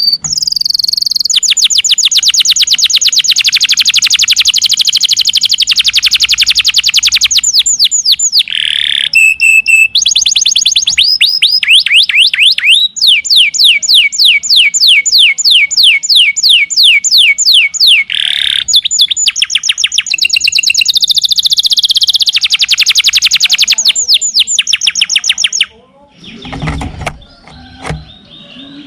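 Domestic canary singing a long, loud song of very fast repeated-note trills, one rolling phrase after another at different pitches, before stopping abruptly about 26 seconds in.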